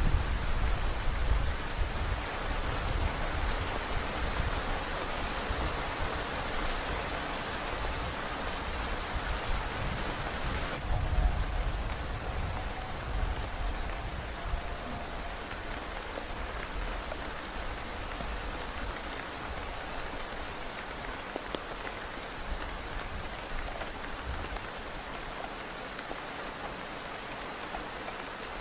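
Heavy rain falling steadily, a dense hiss of drops. Gusty low rumbling from strong wind comes and goes through the first half, then dies down about halfway, leaving the rain alone and a little quieter.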